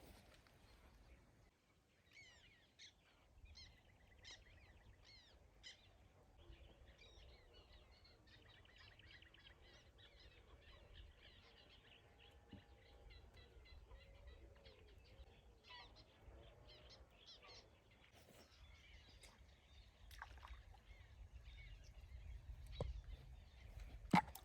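Faint birds singing: a few short separate chirps, then a long run of rapid twittering. A low rumble grows towards the end, and a single sharp click comes just before it ends.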